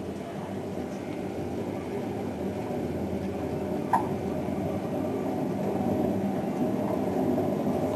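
Privileg Ergonomic 1600 S front-loading washing machine running with a steady rumble that slowly grows louder, with one short knock about halfway through. The rumble comes from a drum with badly worn bearings.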